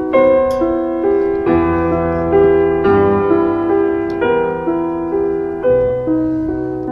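Soft background piano music: a slow, gentle melody of single notes over a low bass line.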